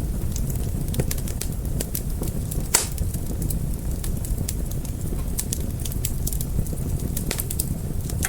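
Wood fire crackling: many small, irregular sharp pops over a steady low rumble of burning, with one louder crack a little under three seconds in.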